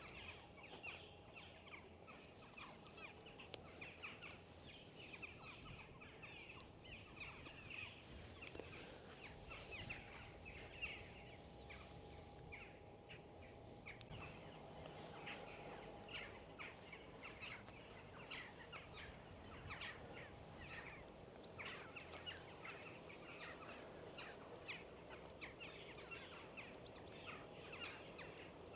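A flock of jackdaws calling faintly and repeatedly in the distance, short sharp calls all the way through, over a low rumble of wind.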